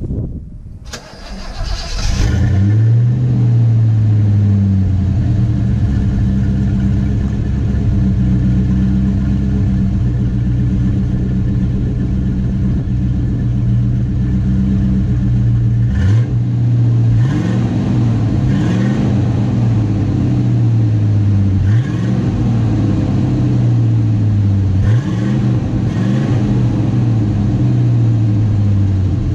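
Ford Mustang's 5.0 V8 cold-started at the exhaust: it cranks briefly, catches about two seconds in and runs at a fast idle that settles lower. In the second half it is given several quick throttle blips, each rev rising and falling back to idle.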